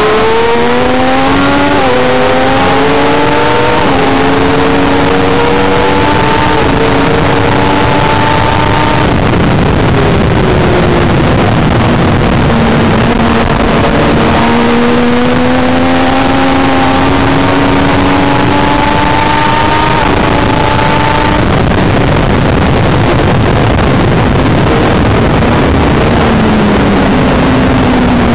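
Triumph Daytona 675's three-cylinder engine heard on board under hard acceleration. Its pitch climbs through the gears, with quick upshifts about two and four seconds in. It shuts off around nine seconds and again around twenty-one seconds, then accelerates once more. A constant rush of wind noise runs underneath.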